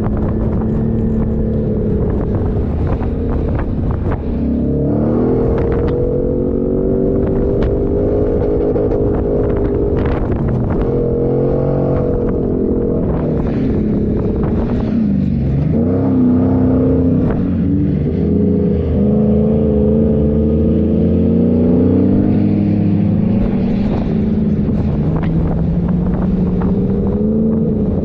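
Off-road 4x4 engine running under changing throttle, its note rising and falling as it revs, with a deep dip and climb about halfway through. Scattered knocks and rattles come through over it.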